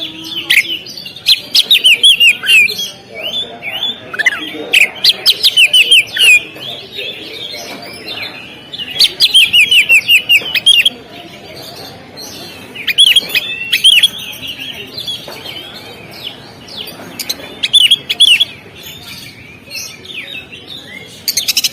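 Oriental magpie-robin (kacer) singing: loud, rapid strings of varied whistled notes that sweep sharply up and down, in bursts of one to two seconds with short pauses between them.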